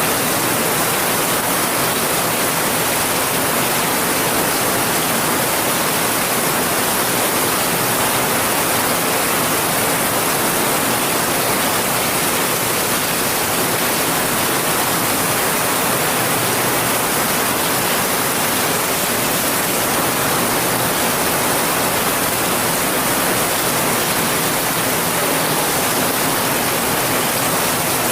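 Heavy rain falling in a steady downpour, an even hiss with no breaks or changes.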